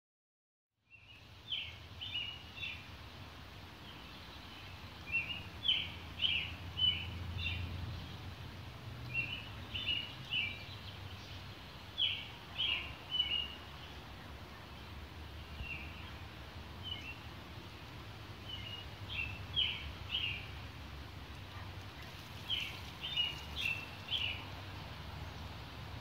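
A songbird singing short phrases of a few quick chirping notes, repeated every second or two after a silent first second, over a low steady rumble.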